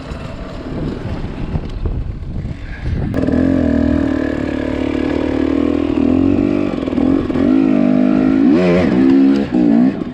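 Two-stroke dirt bike engine running low and uneven for the first three seconds, then held at higher revs with the pitch wavering as the throttle is worked. Several quick blips of the throttle come near the end.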